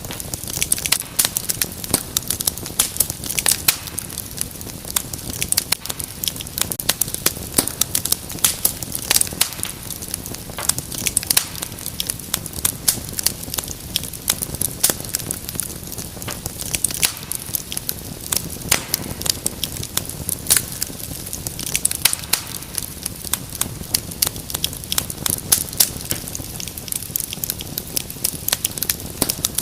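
Wood fire crackling steadily in a fireplace: dense, irregular sharp pops and snaps over a low rushing hiss.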